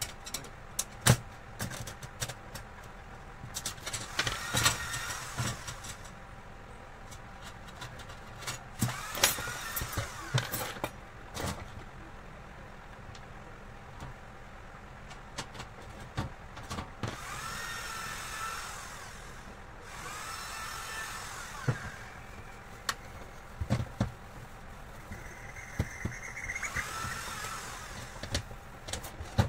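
Clicks and knocks of parts and tools being handled during espresso machine repair work, with three short spells of a small motor whining up and then down in pitch, a bit past halfway and twice more near the end.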